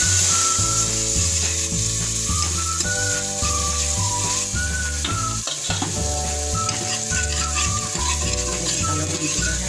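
Tomato and spice masala sizzling in hot oil in a pressure cooker as it is stirred with a steel ladle. Instrumental background music plays over it, with a stepping bass line, held chords and a melody.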